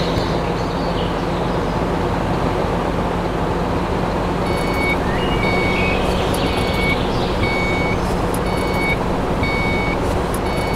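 Truck engine running steadily. About four seconds in, a reversing alarm starts beeping at an even pace, a little faster than once a second.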